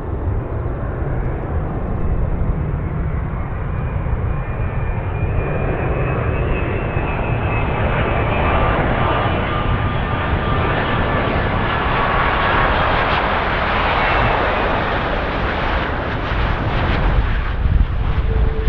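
Wide-body jet airliner passing low on its landing approach: a steady rumble with high engine whine tones that slowly drop in pitch, growing loudest about two-thirds of the way through before easing off.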